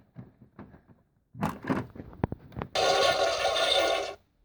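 Toy house toilet's electronic flush sound effect: a short burst of rushing water noise, about a second and a half long, that cuts off suddenly. It is preceded by a few soft clicks and scrapes as the toy is handled.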